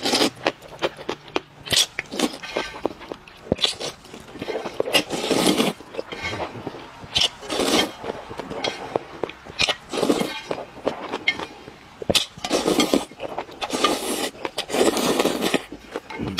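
Close-up eating sounds: repeated wet slurps and chewing, mixed with many sharp clicks and clinks of utensils against a bowl. The longer slurps come about every two to three seconds.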